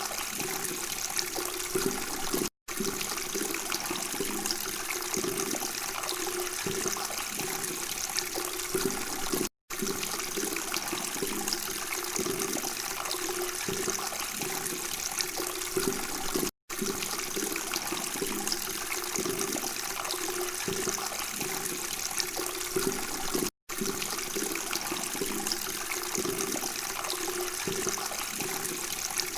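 Flowing, babbling water, a steady rushing trickle that drops out for a split second about every seven seconds.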